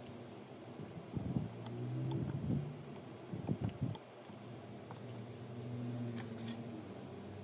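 Small clicks, taps and rattles of tools and phone parts being handled on a workbench, with a few louder knocks and a low hum that rises and falls.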